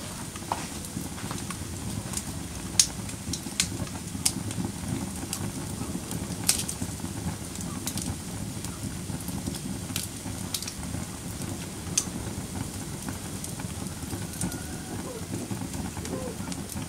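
Wood fire burning in a fireplace: a steady low rumble of flames with scattered sharp crackles and pops, the loudest pops about three seconds in and again near twelve seconds.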